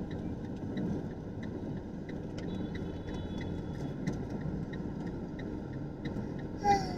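A car driving, heard from inside the cabin: steady engine and road noise, with a light ticking about two to three times a second.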